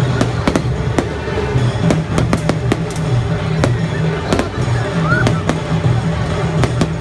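Aerial fireworks bursting, with many sharp bangs at irregular intervals. Music with a steady bass and crowd chatter run underneath.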